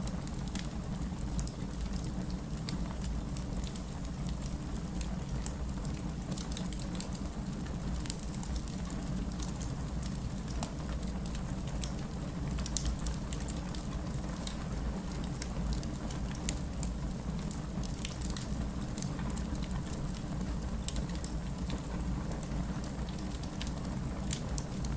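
Wood fire burning in a fireplace: a steady low rumble of flames with constant, irregular crackling and popping of the burning logs, a couple of sharper pops standing out.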